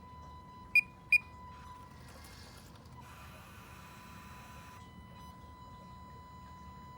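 Two short, sharp electronic beeps about a second in, followed by a hiss lasting about three seconds, over a faint steady whine.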